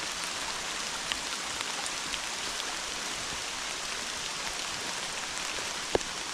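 Steady rain falling hard, with scattered single drops ticking close by; the sharpest tick comes near the end.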